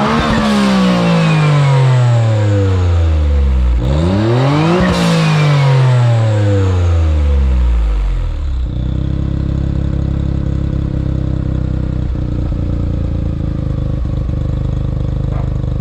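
Autozam AZ-1's turbocharged 660 cc three-cylinder engine revved twice at a standstill through a straight downpipe with no catalytic converter. Each time the revs rise sharply and then fall away slowly, and the engine settles to a steady idle about nine seconds in.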